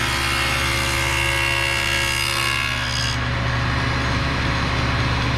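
Table saw with its blade tilted to 17 degrees cutting a tenon on the end of a leg piece. The cut ends about three seconds in and the saw keeps running with nothing in the blade.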